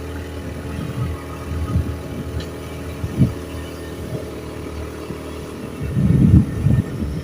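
A vehicle engine running steadily, with irregular low rumbling surges that grow stronger near the end.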